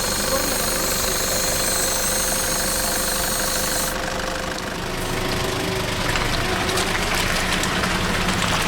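An off-road vehicle's engine running steadily. A high hiss over it cuts off abruptly about four seconds in.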